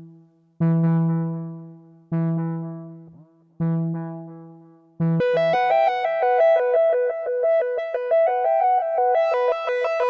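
Arturia MiniFreak synthesizer sound demo: the same low note is struck three times, each fading away. About halfway through, a fast arpeggiated run of quickly changing notes takes over and grows brighter near the end.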